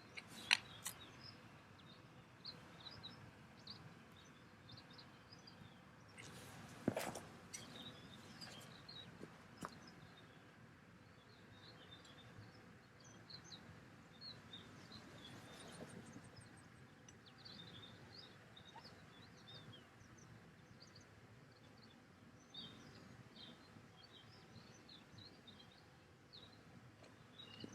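Small birds chirping, many short high calls again and again, faint over a quiet outdoor hush. A few sharp knocks come about half a second in and about seven seconds in.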